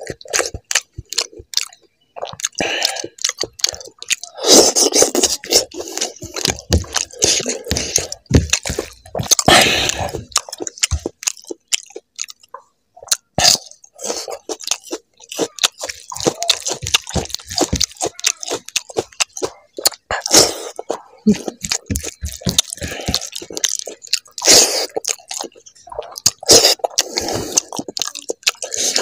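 Close-up wet chewing of fatty pork fry and gravy-soaked rice: many quick mouth clicks and lip smacks, coming in bursts with short pauses between mouthfuls.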